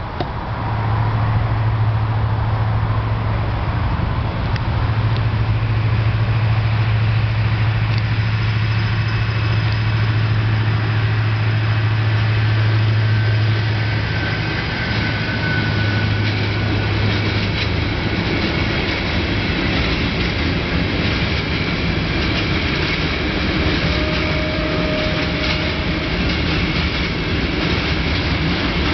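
Six-axle Deutz diesel locomotive passing with a freight train, its engine droning steadily at first. After about 17 seconds the drone fades, and the wagons rolling over the rails take over, with scattered clicks and a few brief thin tones.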